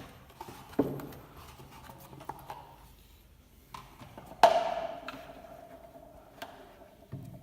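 Knocks and clatter of loudspeaker parts being handled during the repair. About halfway through comes one sharp knock, the loudest sound, which rings on with a steady tone that slowly fades.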